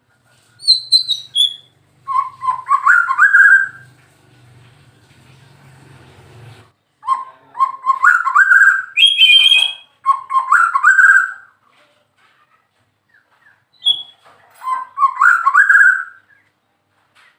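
White-rumped shama (murai batu) singing: four loud phrases of stepwise-rising whistled notes, each about a second and a half long, with thin high notes at the start and between the phrases.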